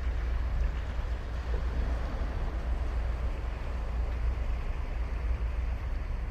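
Ocean surf washing onto a sandy beach as a steady, even rush, under a constant low rumble.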